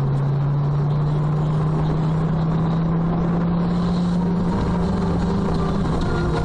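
Motor vehicle engine running with its note climbing slowly and steadily as it accelerates, then shifting about four and a half seconds in.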